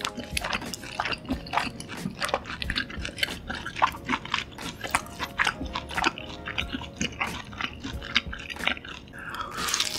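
Close-miked chewing of a large mouthful of tomahawk steak, with a rapid, irregular run of wet mouth clicks and smacks. Faint background music plays underneath.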